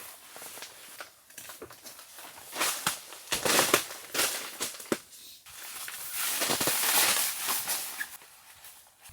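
Irregular rustling and crunching with scattered sharp clicks, loudest in two stretches a few seconds apart.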